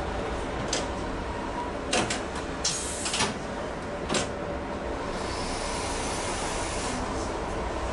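A tram stopped at a stop gives several sharp clunks and a short burst of compressed-air hiss from its door and brake gear. A steady rushing noise sets in about five seconds in.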